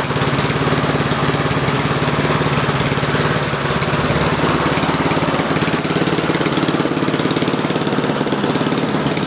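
Honda HRS21 push lawn mower engine running steadily, with an even, rapid firing rhythm; it is pretty quiet. It runs with its main jet and orifice tube lying loose in the carburetor bowl, so it will not reach full throttle.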